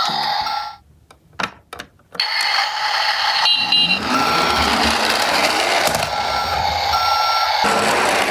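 Toy garbage truck's electronic sound effects: repeated beeps over a steady noisy rumble, starting about two seconds in after a few clicks.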